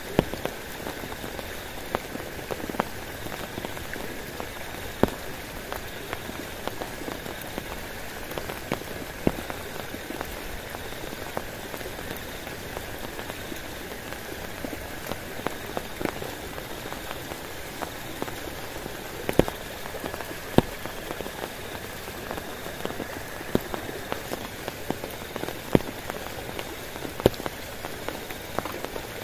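Steady heavy rain falling on a camping tarp and tent, with frequent sharp taps of single drops at irregular intervals, a few of them much louder than the rest.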